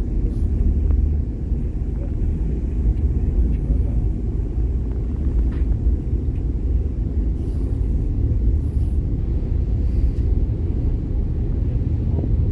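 Steady low rumble aboard a ferry: engine and wind noise, with faint small ticks.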